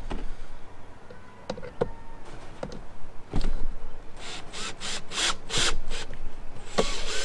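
Hand work on a wooden nest box: a few sharp knocks on wood, then a run of about six quick rasping strokes over wood. Near the end a power tool starts to whir steadily.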